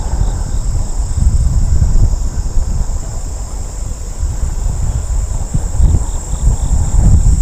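Wind buffeting the microphone of a moving bicycle as a low, uneven rumble. Under it runs a steady high-pitched chorus of insects along the trail.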